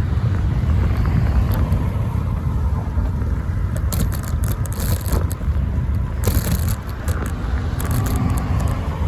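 Steady low rumble of wind and road vibration on a bicycle-mounted phone, with short bouts of scraping and rattling about four, six and eight seconds in as the makeshift phone holder jolts.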